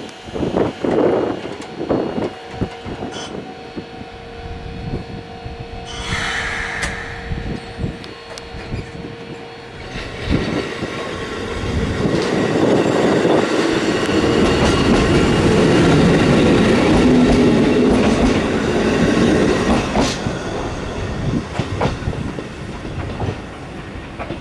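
Kotoden 1200-series electric train (ex-Keikyu 700) departing. Scattered knocks and a steady tone come first, then a brief high-pitched sound about six seconds in. From about ten seconds the train pulls away, its motor and wheel rumble building to loudest midway through and then easing, with clicks of wheels over rail joints.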